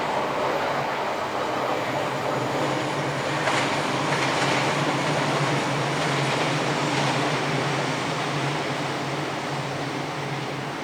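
A train passing, a steady rush of wheel and running noise with a low hum, easing off toward the end.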